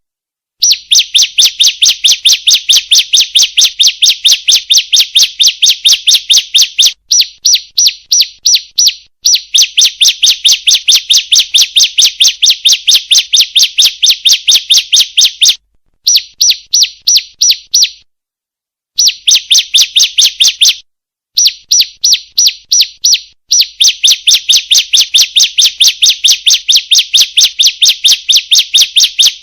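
Female bar-winged prinia (ciblek) calling: long runs of rapid, sharp high notes, about five a second, broken by brief pauses.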